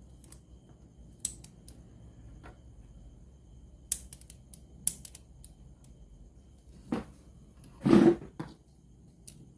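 Scattered sharp clicks and taps of small hard parts and tools being handled, with a louder half-second scrape or clatter about eight seconds in.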